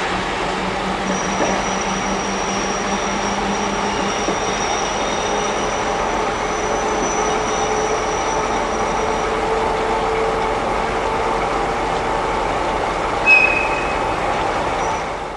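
JNR Class 73 electric train running, a steady rumble with a thin high squeal for several seconds. A brief sharp sound stands out near the end.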